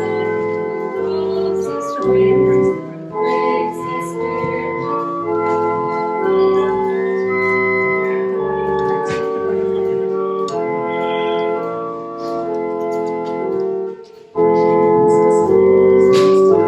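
Church organ playing held chords, the notes changing slowly; it breaks off briefly about fourteen seconds in and comes back in louder.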